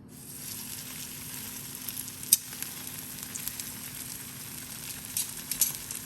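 Salmon frying in hot oil in a pan: a steady sizzle that sets in at the start as the fish goes in, with a few sharp pops, the loudest about two seconds in and a cluster near the end.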